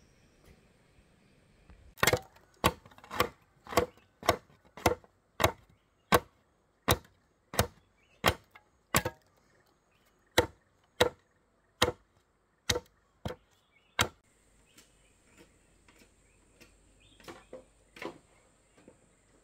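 A steady series of about twenty sharp tool strikes on wood, roughly one and a half a second, which stops after about twelve seconds; a few fainter knocks follow near the end.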